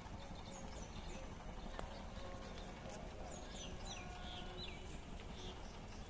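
Small birds chirping in short falling notes, a few about a second in and a busier run from about three to five seconds in, over a faint steady background rumble.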